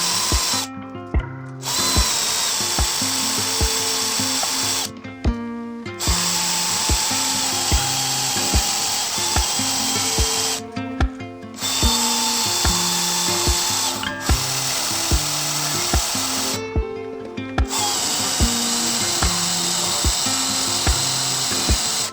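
Electric drill drilling out the spot rivets in a steel window frame, running in spells of a few seconds with about five short stops. Background music with a steady beat plays under it.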